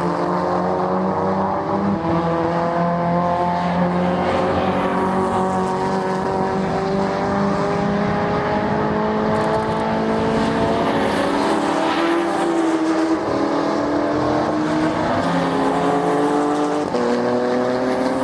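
Racing car engines running hard on circuit, several engine notes climbing slowly in pitch as they accelerate. About two-thirds of the way through and again near the end, the engine pitch changes suddenly, as at a gear change.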